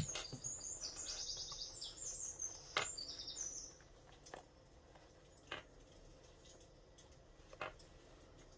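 A small bird twittering: quick runs of high chirps for about the first three and a half seconds. A sharp click at the very start is the loudest sound, and a few more single clicks follow at scattered intervals.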